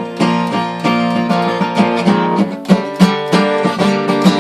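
Acoustic guitar strummed in a steady rhythm, the chords ringing.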